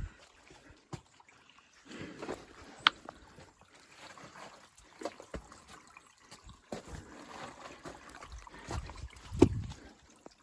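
A person crawling through forest brush under fallen trees: irregular rustling of leaves and twigs, with scrapes and knocks, a sharp snap about three seconds in and a heavy bump near the end.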